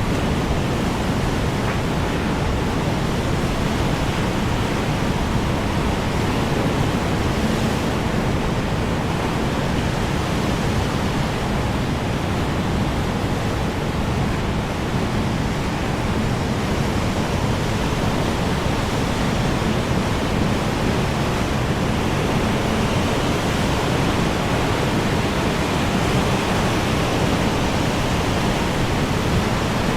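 Strong wind blowing steadily: a dense, even rush that hardly varies in level, heaviest in the low end.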